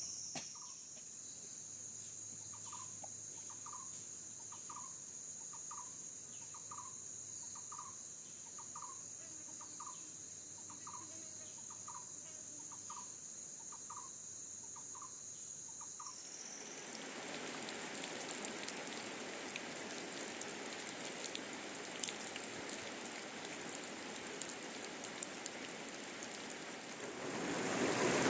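Forest night ambience: insects (crickets) trilling steadily in a high drone, with a short call repeating about once a second. About sixteen seconds in, this gives way to steady rain, which grows louder near the end.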